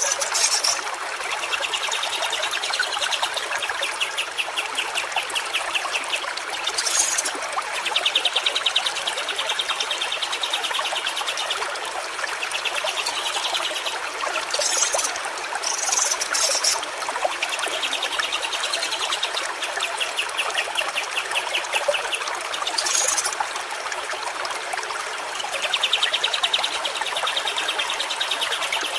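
A stream trickling and splashing steadily. Over it, a rapid buzzy trill of a second or two repeats every few seconds, and short high-pitched calls break in now and then.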